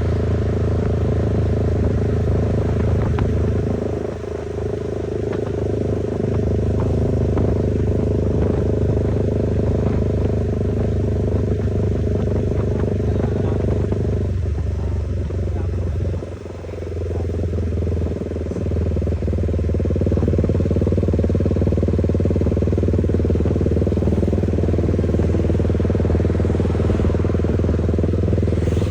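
Motorcycle engine and exhaust running at steady revs while riding, with the engine note dipping briefly twice, about four seconds in and a little past halfway.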